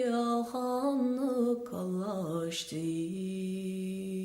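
A solo voice singing unaccompanied in Irish, with ornamented turns on the notes, ending the phrase on a long held low note near the end.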